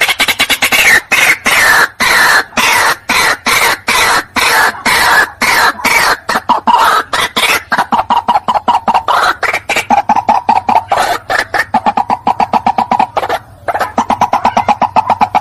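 White-breasted waterhen calling: a loud, unbroken run of harsh clucking notes, about five a second, higher and falling in pitch at first, settling into steadier, lower notes later on.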